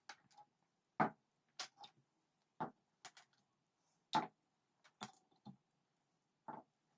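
A series of short, sharp clicks and light knocks at irregular intervals, about nine in all, the loudest about a second in and near the middle.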